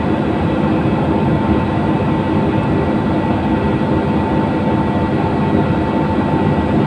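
Cabin of a LiAZ-5292.67 city bus under way: steady engine drone and road noise, with a thin steady whine running through it.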